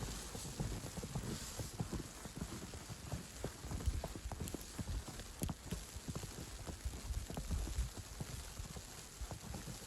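Footsteps crunching in snow at a steady walking pace, over a faint hiss.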